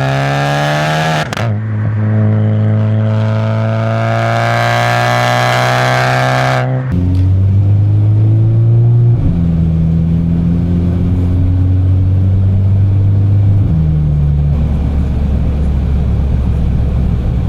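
Exhaust of a big-turbo MK6 VW GLI's turbocharged 2.0-litre four-cylinder, heard from a mic at the tailpipe, on a gentle pull through the gears. The engine note climbs steadily in each gear and drops at the upshifts about a second in, near 7 seconds, near 9 seconds and near 14 seconds, then holds fairly even toward the end.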